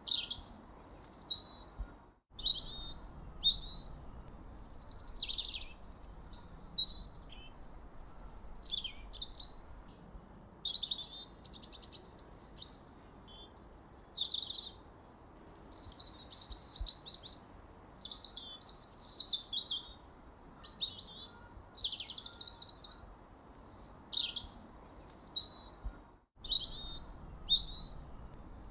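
Songbirds chirping and singing without pause, many short, quick, high-pitched calls overlapping. The whole sound cuts out for a split second twice, about two seconds in and near the end.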